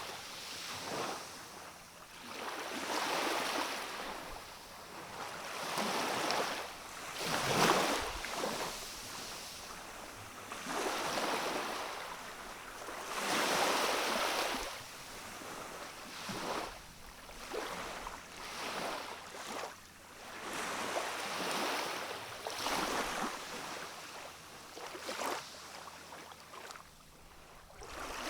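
Small, gentle sea waves washing onto a rocky shore, one soft surge of water every couple of seconds, each swelling and falling away.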